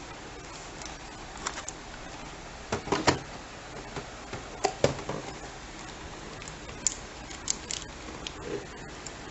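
Hands handling a toy's packaging: scattered clicks, taps and crinkles, with louder knocks about three seconds and about five seconds in.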